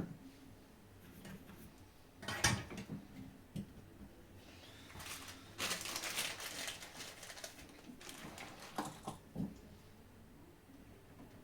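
Handling noise from small plastic parts and tools on a workbench: scattered clicks and taps, a sharper knock, a stretch of rubbing and scraping, then two more knocks.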